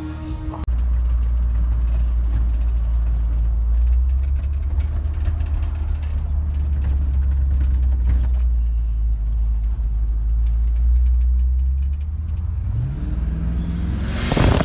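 Chevy C10's 350 small-block V8 running at a steady idle, a deep low rumble. Near the end the pitch rises briefly, then a loud burst of noise.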